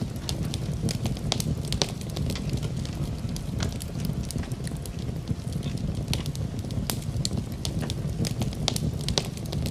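Wood fire crackling in a fireplace, with irregular sharp pops and snaps over a steady low rumble of the flames, mixed with a steady hiss of rain.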